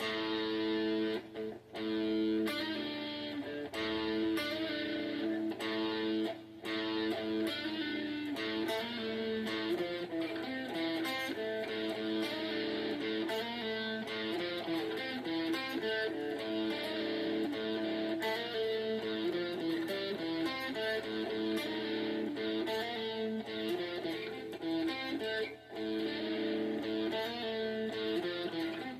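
Guitar strummed and picked, chords ringing on with short breaks as the hand moves between chords.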